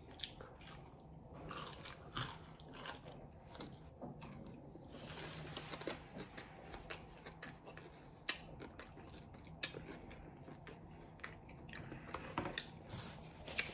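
A person chewing a bite of a fried green bean dipped in spicy mayo close to the microphone: faint chewing with many small sharp clicks.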